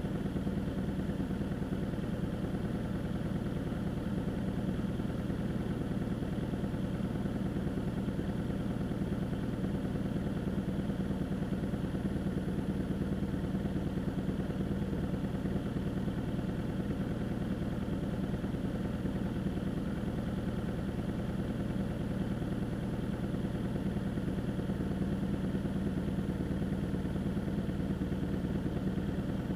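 An engine idling steadily: a constant, even hum at one unchanging pitch.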